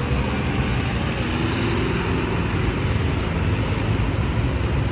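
Mahindra 595 Turbo tractor's diesel engine running steadily at a constant pitch.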